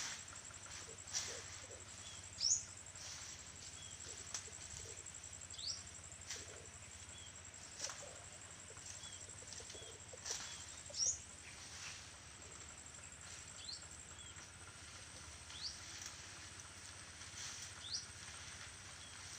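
Birds calling in short, high, rising chirps every second or two, over scattered light clicks and rustles. A faint steady high hiss stops about three-quarters of the way through.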